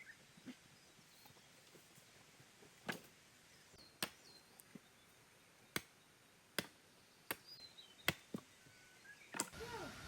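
A blade chopping, about eight sharp strokes at an uneven pace, with faint bird chirps behind.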